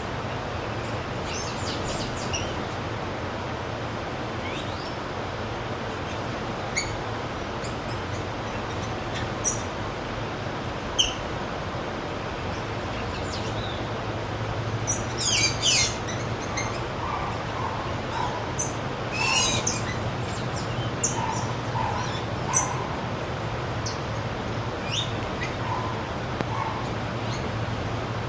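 Wild birds calling with short, high chirps and squawks scattered through, busiest about halfway in, over a steady low background hum.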